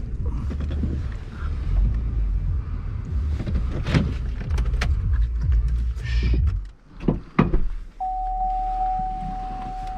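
Vehicle cabin rumble while driving, with scattered clicks and rattles; the rumble drops away about two-thirds of the way in. A few sharp knocks follow, and near the end a steady, single-pitched electronic warning tone starts and holds.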